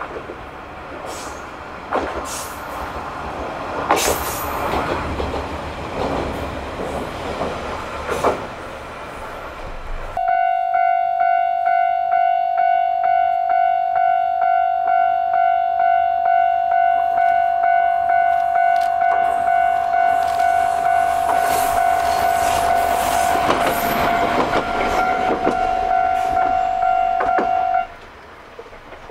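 An Isumi Railway diesel railcar running past, with a few sharp wheel clicks over rail joints. About ten seconds in, a level-crossing warning bell starts abruptly, a loud ringing tone that pulses regularly and stops suddenly near the end.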